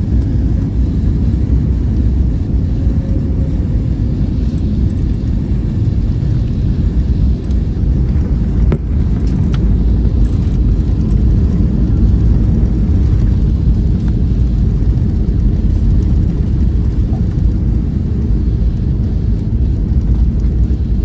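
Steady deep rumble of an airliner heard from inside the passenger cabin, with a single sharp click about nine seconds in.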